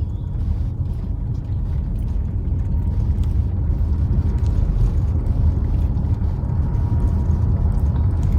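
Car running along a road, heard from inside the cabin: a steady low rumble of engine and tyre noise.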